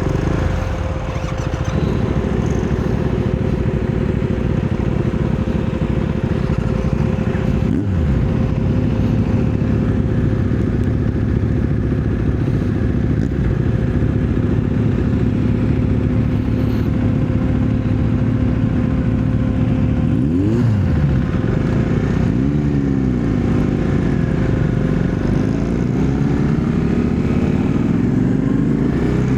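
Husqvarna Svartpilen 401's single-cylinder engine running steadily under way. There is a sudden change of pitch about eight seconds in, and the revs rise and fall several times near the end.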